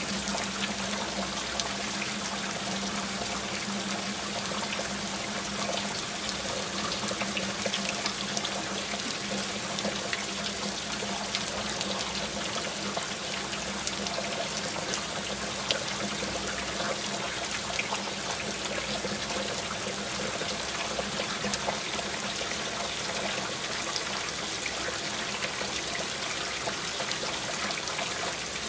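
Steady rain falling, with scattered drips and trickling water, and a faint low steady hum underneath.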